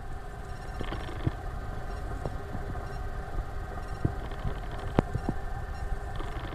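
Boeing 737-500's CFM56-3 jet engines running steadily at low power, a hum holding several fixed tones, with scattered sharp clicks and knocks.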